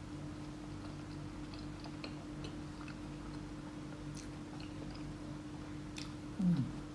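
Close-up soft chewing and small wet mouth clicks of someone eating rice and meat by hand, over a steady low hum that pulses a few times a second. Near the end a short low vocal sound falling in pitch, the loudest moment.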